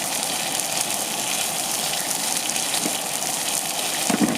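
Salmon frying skin side down in a cast iron skillet: a steady, crackling sizzle from a pan running hotter than the cook would like.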